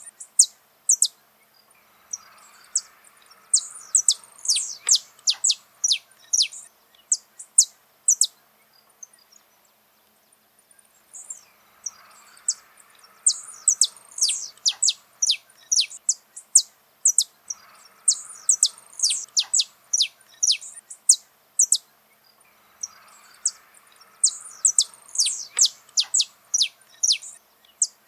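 Saffron finch (canário-da-terra) singing: several phrases of rapid, sharp, high notes that each drop in pitch, with short pauses between the phrases.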